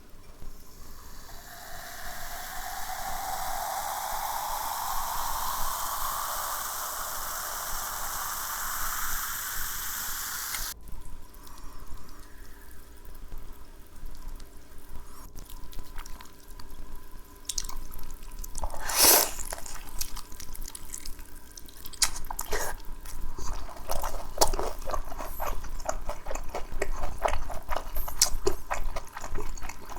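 Liquid being poured into a glass, with a resonance that rises in pitch as the glass fills, stopping abruptly about eleven seconds in. After that come scattered clicks and taps with one louder sharp knock, and the clicking grows denser near the end.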